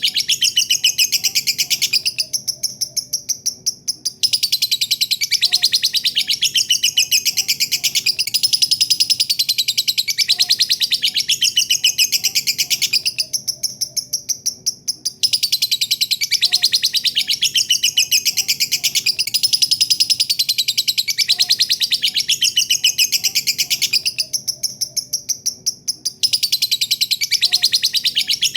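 Lovebird giving a long "ngekek" song: a fast, continuous chattering trill of rapid high chirps. It fades and breaks off briefly three times, about every eleven seconds, then starts again.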